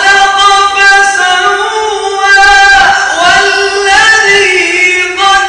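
A male reciter chanting the Quran in a very high register, drawing out a vowel in long melismatic phrases: held notes joined by quick ornamented glides, with brief breaths between phrases.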